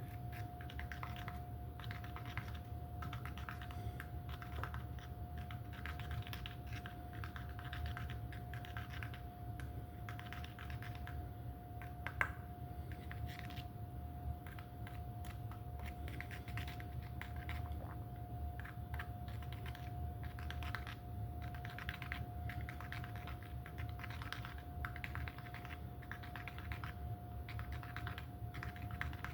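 Quick, irregular light clicks and taps, with one sharper click about twelve seconds in, over a steady faint high tone and a low hum.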